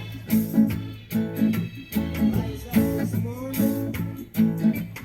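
Acoustic guitar strummed in a steady reggae-style pattern, the chords cut short between strokes by muting the strings.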